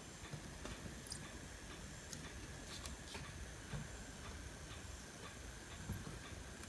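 Faint, irregular light clicks and taps of small tools and parts being handled while working on a circuit board, over a low steady background hum.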